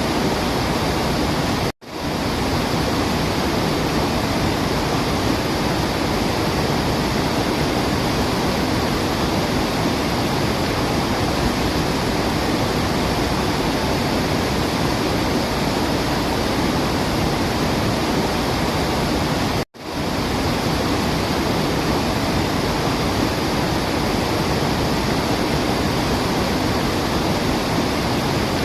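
Steady rush of falling water, an even hiss and roar with no birdsong audible. It cuts out to silence for an instant twice, as at the seam of a looped track.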